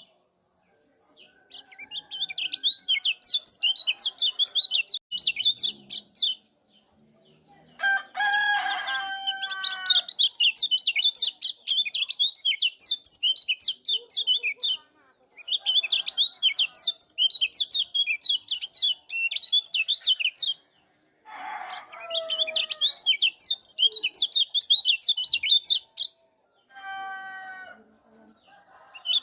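Kecial kuning white-eye calling in repeated bursts of fast, high, chattering 'ciak' notes, each burst a few seconds long with short pauses between. A lower, harsher call with a stack of harmonics breaks in three times: about eight seconds in, around twenty-two seconds and near the end.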